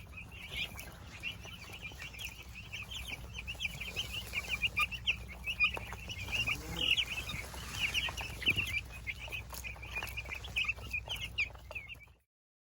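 A flock of meat-bird chicks, about twelve days old, peeping continuously in many short, high chirps over a low steady hum. The sound cuts off abruptly near the end.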